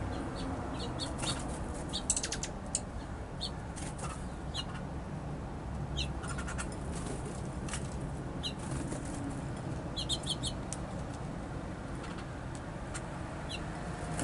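Small songbirds at a feeder giving short, scattered chirps, with a quick run of four about ten seconds in and a few brief wing flutters near the start. A steady low rumble runs underneath.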